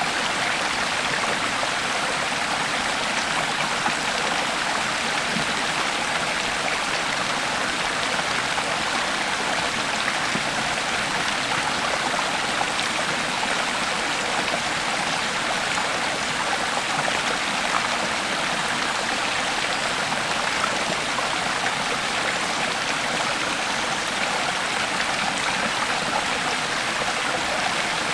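Creek water flowing steadily over rocks, a continuous even rushing and babbling.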